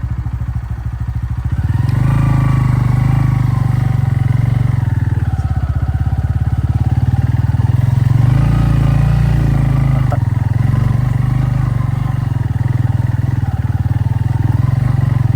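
Motorcycle engine running steadily under load on a rough dirt road. It grows louder about two seconds in, and its note rises and falls a little with the throttle.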